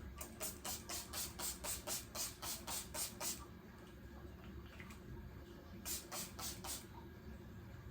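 Pump spray bottle of facial toner misting, a quick run of short hissy sprays over the first three seconds, then a few more about six seconds in.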